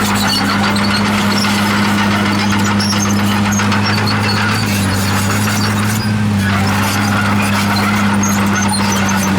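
Komatsu D51PX crawler bulldozer working: its diesel engine holds a steady tone over the continuous clatter of its steel tracks.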